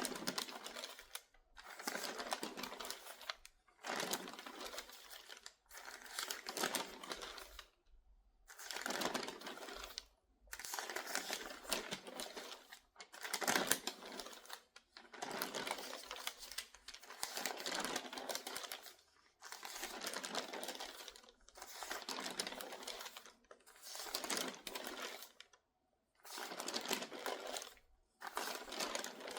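Crinkly newspaper pages turned quickly one after another, each turn a rustling crinkle of about a second and a half, with a page about every two seconds.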